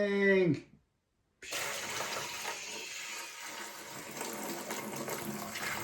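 Water pouring steadily into a large container, filling it, beginning about a second and a half in after a shouted "Incoming!".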